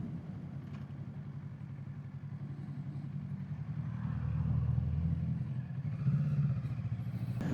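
Kawasaki Z650 parallel-twin motorcycle engine running at low revs while riding, with wind and road noise. The engine note swells and rises a little about four seconds in, then settles.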